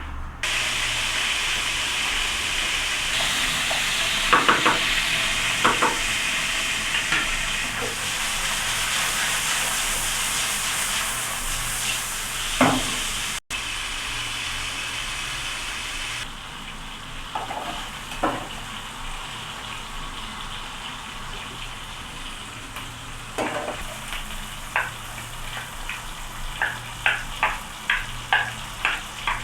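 Food sizzling in hot vegetable oil in a frying pan, with a spatula knocking and scraping against the pan. The sizzle is loudest in the first half, and a quick run of clinks comes near the end.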